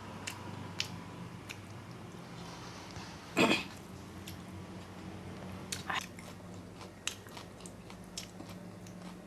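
Close-up eating sounds: chewing and biting with small sharp mouth clicks, and one louder, longer burst about three and a half seconds in.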